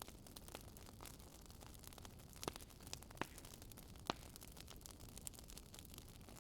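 Wood fire crackling quietly over a low rumble and hiss, with a few sharper pops in the middle.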